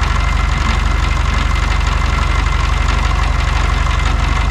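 Air-cooled VW Beetle flat-four engine idling steadily, with an even pulsing beat.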